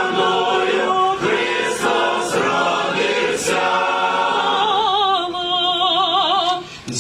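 Choir singing a koliadka (Ukrainian Christmas carol), with long held notes that waver with vibrato in the second half and a brief breath pause just before the next line begins.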